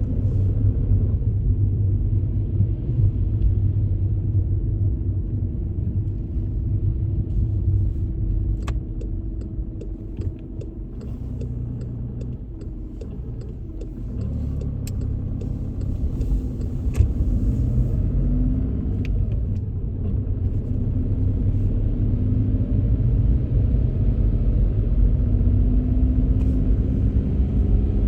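Car driving on a wet road: a steady low rumble of engine and tyres, with faint tones that drift with speed. It eases off for a few seconds near the middle, then builds again, with faint scattered ticks over it.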